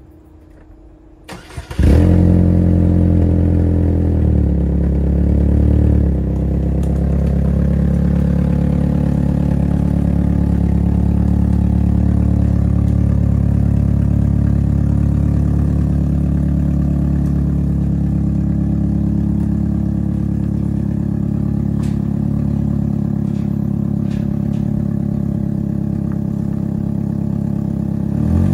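Chevrolet Malibu's engine cranked briefly and catching about two seconds in, after the car has sat unused for about three years. It runs at a raised, busier idle for a few seconds, then settles to a steady idle.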